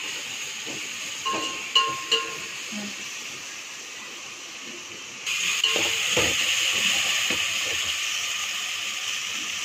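Onions, green chillies and ginger-garlic paste sizzling in ghee and oil in a metal pot, with a metal spoon stirring and clinking against the pot. The sizzle jumps suddenly louder about five seconds in and then holds steady.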